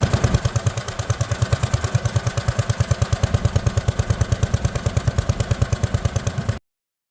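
Allis-Chalmers B210 garden tractor's engine running with a steady, even beat of about ten pulses a second, cutting off abruptly near the end.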